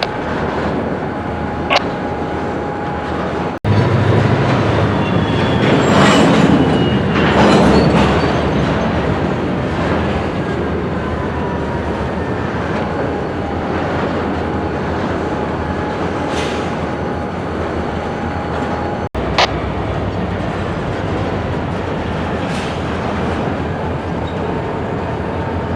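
Freight cars and a switching locomotive moving through a rail yard: steady rumble of steel wheels on rail with a thin, steady wheel squeal. The sound swells louder for a few seconds near the start, and a few sharp metallic clanks come through it.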